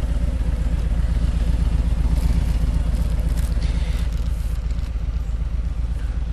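Motorcycle engine idling steadily, with light rustling and clicks about two to four seconds in.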